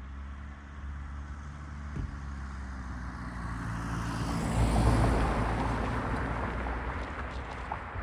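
An engine-driven vehicle passing close by: a steady engine drone grows louder to a peak about five seconds in, then eases off.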